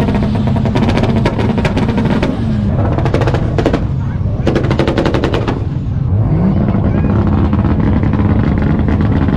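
Turbocharged Toyota Supra engine held on a two-step launch-control rev limiter, its exhaust firing rapid strings of loud bangs in three bursts. About six seconds in, the revs dip and climb back up, then hold steady on the limiter.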